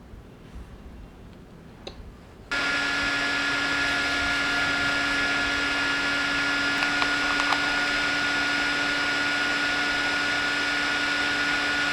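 A small electric appliance motor switches on about two and a half seconds in and runs steadily at one speed, a hum and a higher whine over a rushing hiss. Before it, a few light clicks in a quiet room.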